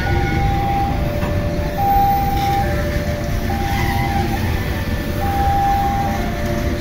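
Passenger carriages rolling past slowly, with a steady rumble of wheels on the rails as the train slows for a station stop. Over it, a level-crossing warning alarm repeats a two-tone chime, a higher note then a lower one, each just under a second long.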